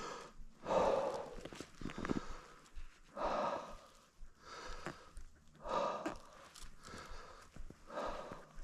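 A person breathing hard, with a heavy breath about every two and a half seconds, four in all.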